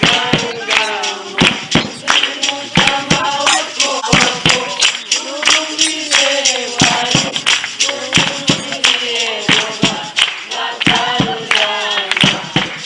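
Singing accompanied by a steady rhythm of sharp percussive beats.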